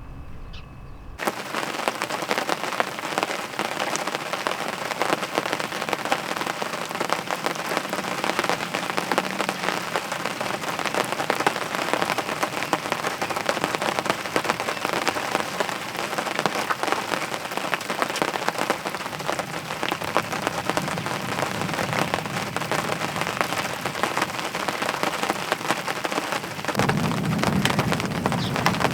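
Rain falling steadily, a dense patter of drops hitting a surface, starting suddenly about a second in and growing a little louder near the end.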